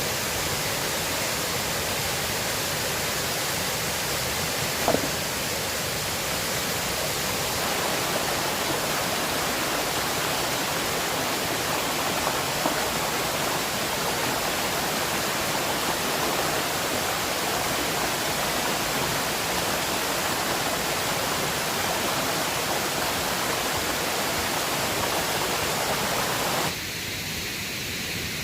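River water rushing steadily, an even hiss of flowing water with a few faint clicks; near the end it suddenly drops to a quieter, thinner rush.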